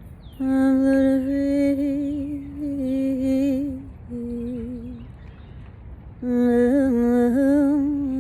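A woman's voice humming a slow, wordless melody in long held notes with a slight waver, in three phrases, the middle one quieter. Faint short falling chirps sound higher up behind the voice.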